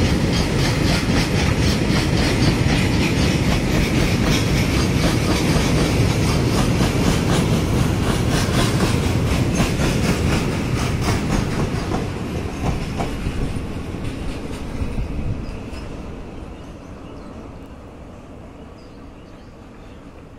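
Freight train of railway tank wagons rolling past, wheels clicking over the rail joints in a fast, steady clickety-clack. The noise fades out over the last few seconds as the end of the train goes by.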